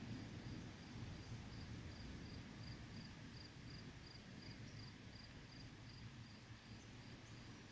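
Faint cricket chirping in an even rhythm, close to three short high chirps a second, over a steady low background rumble.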